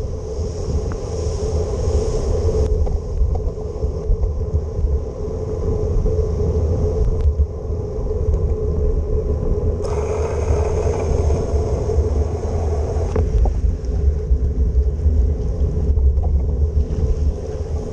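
Bicycle ride on wet city streets: steady wind rumble on the microphone over road and traffic noise. A louder hiss of a vehicle passing on the wet road rises about ten seconds in and falls away some three seconds later.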